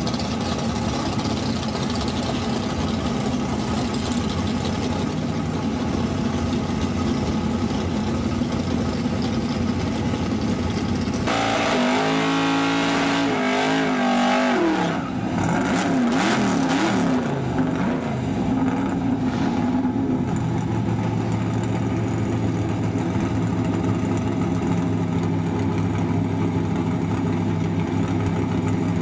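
Oldsmobile Cutlass drag car's engine rumbling at idle, then revving hard for about four seconds partway through as the rear tyres spin in a burnout. A few shorter revs follow, then it settles back to a steady idle.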